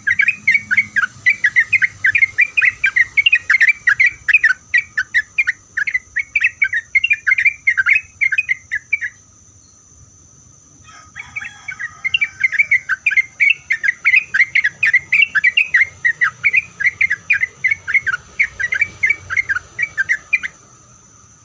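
Yellow-vented bulbul (trucuk) singing a long, rapid run of chattering notes, the fast continuous 'ropel' song. It breaks off for about two seconds some nine seconds in, then resumes and stops near the end.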